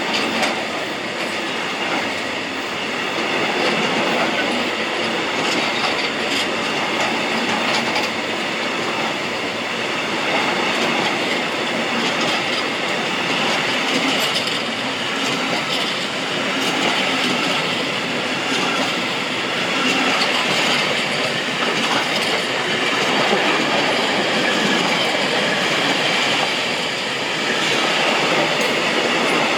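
A train rolling past on the track: a steady rumble of wheels on rails, with scattered clicks and a faint high squeal of wheels against the rails running through it.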